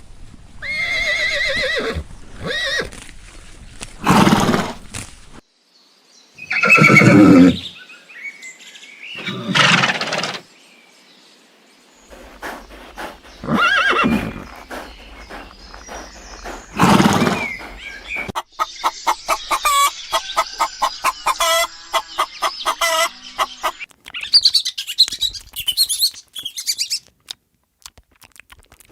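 A series of separate animal calls, a horse's whinny among them, each a second or less long. From just past the middle comes a rapid string of clicking chirps, then high chirps.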